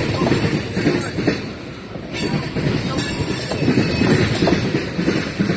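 Oil tank cars of a long freight train rolling past, their wheels clattering rapidly over the rails.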